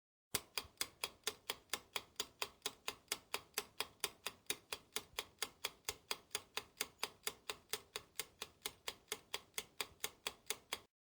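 Clock-like ticking, about four and a half sharp, even ticks a second, that starts and stops abruptly.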